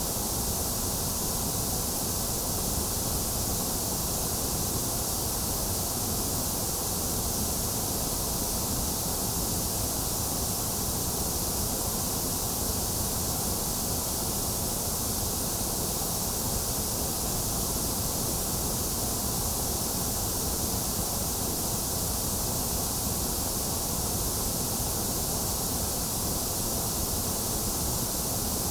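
Steady synthetic white noise: an even, bright hiss that does not change, played as a sleep aid for babies.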